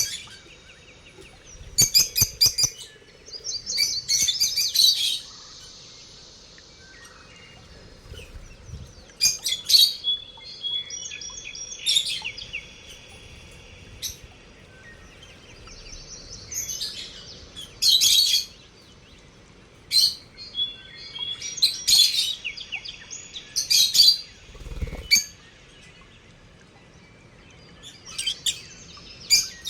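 Lovebirds chirping: shrill, high chirps in short bursts every couple of seconds, some running on into longer chattering stretches, with quiet gaps between.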